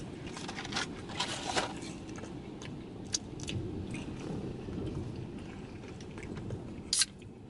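Close-up chewing of McDonald's French fries, with irregular soft crunches and wet mouth clicks over a low steady hum. A sharper click comes near the end.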